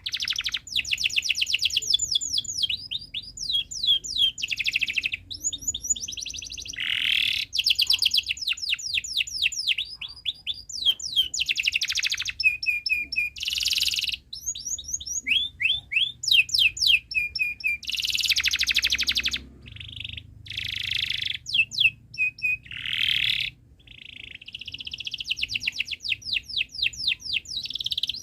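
Domestic canary singing a continuous song of fast repeated trills, broken by dense buzzy rolls about a second long and sharp chirps.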